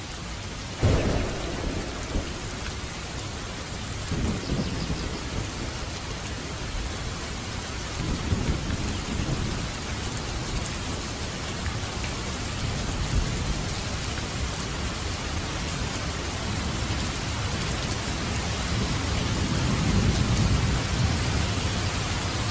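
Steady rain with thunder: a sudden sharp clap about a second in, then several low rolling rumbles, the longest building near the end.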